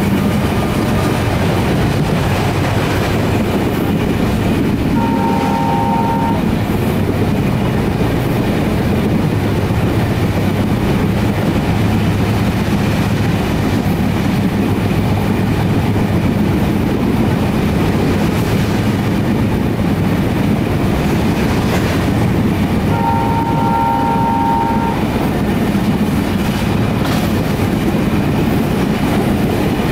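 Passenger train running, heard from on board: a steady rumble and rattle of the coaches on the rails. The locomotive's horn sounds twice, each blast lasting under two seconds, about eighteen seconds apart.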